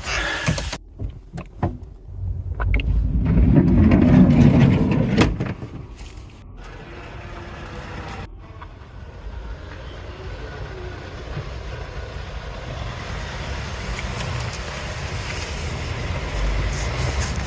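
A few clicks of the van's door handle and lock, then a loud rush as the van door is opened. A car's engine then runs steadily outside, slowly getting louder as the car reverses up.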